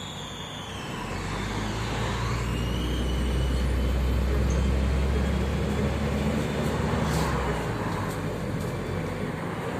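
MAZ-105 articulated city bus heard from inside the passenger cabin: the diesel engine's low drone swells about a second in as the bus pulls under load, then eases off near the end, over steady road noise.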